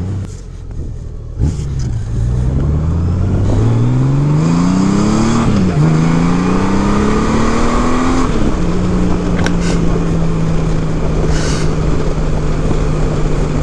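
2018 Honda Gold Wing's flat-six engine pulling hard through modified stock mufflers. The engine note climbs, drops sharply at a gear change about five and a half seconds in, and climbs again. It drops about eight seconds in and then holds a steady note.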